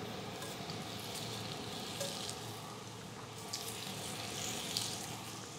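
Potato slices sizzling quietly in a hot cast-iron grill pan as they are laid down, with a few faint taps of slices being placed.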